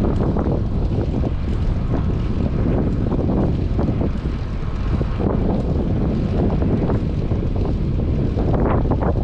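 Strong wind buffeting a GoPro's microphone on a moving bicycle: a loud, steady low rumble.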